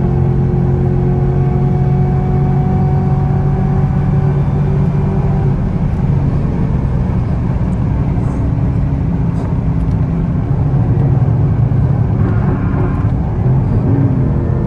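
Camaro ZL1's supercharged V8 running hard at highway speed, with steady road and wind noise. The engine tone climbs slightly over the first five seconds, then is buried in a broader, even rush.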